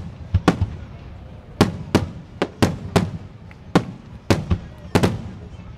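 Aerial fireworks shells bursting in a rapid, irregular run of sharp bangs, about a dozen in under six seconds, several coming in close pairs.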